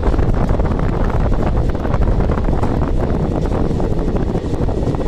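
Moving passenger train running, a steady heavy rumble with wind buffeting the microphone.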